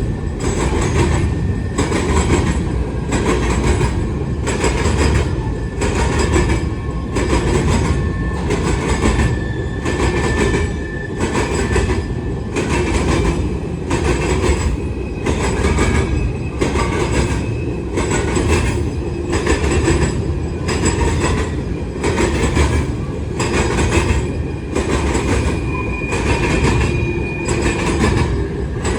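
CSX grain freight train rolling past, its car wheels clacking over rail joints in an even rhythm about once a second. Thin, steady wheel squeal comes and goes above the rumble.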